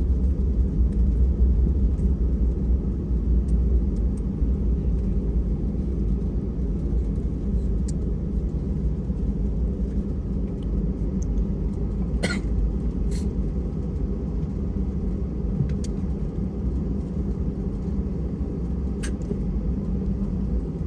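Steady low rumble in the cabin of an Airbus A320 taxiing after landing, from the engines and the rolling wheels, a little louder in the first few seconds. A few short, sharp clicks come through in the second half.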